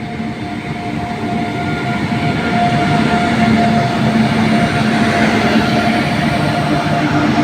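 Indian Railways locomotive-hauled train drawing closer, growing steadily louder. A steady hum from the locomotive sits over the rolling noise of the train.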